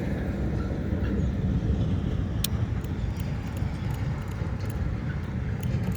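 Strong wind buffeting the microphone: a steady low rumble, with a few faint clicks.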